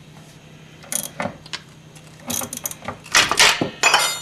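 Hand socket ratchet clicking in short bursts on the ball-joint nut, with metal tools clanking. Near the end comes a sharp metallic clink that rings briefly.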